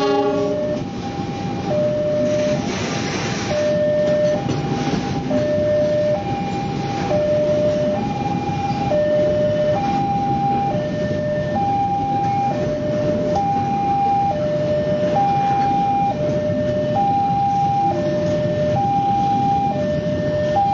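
Container freight train running past at speed, its wheels on the rails giving a steady rumble, while the level crossing's electronic warning alarm sounds over it as two alternating tones, high and low, changing about once a second.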